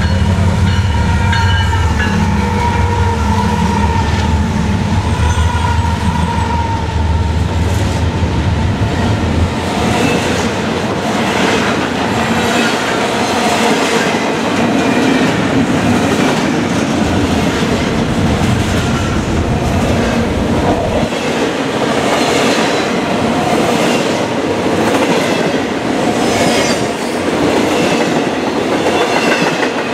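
BNSF freight train passing at speed: its diesel locomotives run loud and deep for about the first nine or ten seconds, then the double-stack container cars rush past with a steady rolling rumble and a rhythmic clickety-clack of wheels over the rail joints.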